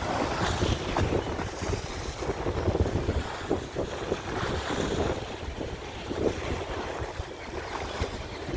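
Sea waves breaking and washing on the shore, a continuous surging wash with heavy wind rumble on the microphone.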